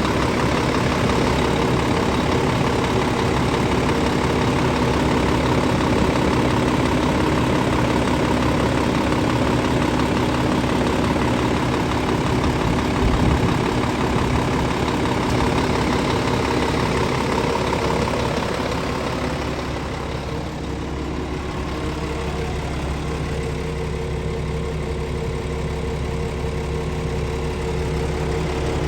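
Scania S500 truck's diesel engine idling steadily, with a brief thud about halfway through; the sound turns a little quieter and duller about two-thirds of the way in.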